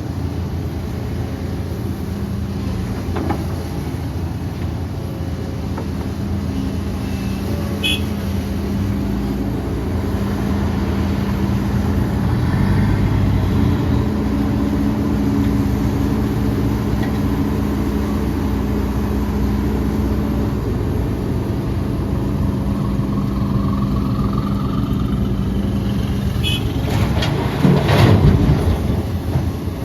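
Diesel engines of heavy earthmoving machinery (excavator and dump trucks) running steadily with a low hum, with a couple of short high squeaks and a louder, rougher surge near the end.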